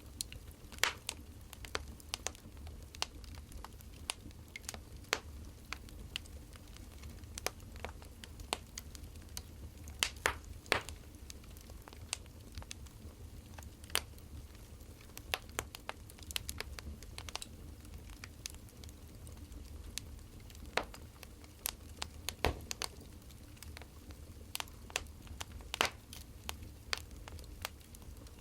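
Burning firewood crackling, with irregular sharp pops and snaps and a few louder cracks over a low, steady rumble.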